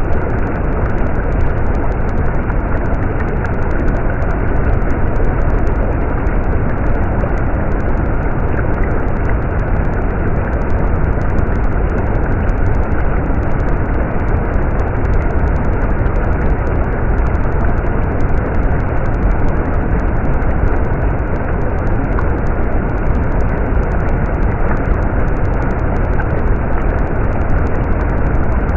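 Running water of a stream flowing steadily, an even rush with no breaks.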